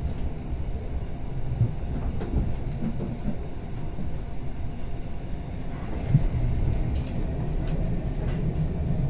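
Running noise of a Bernina Express passenger car heard from inside: a steady low rumble of wheels on rail, with a few light clicks about two, six and seven seconds in.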